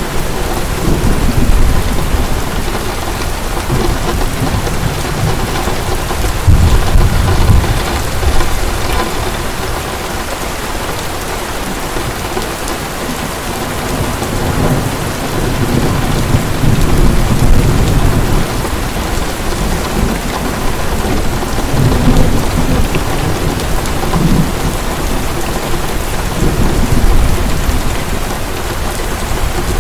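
Heavy rain falling steadily, with low thunder rumbling that swells and fades several times.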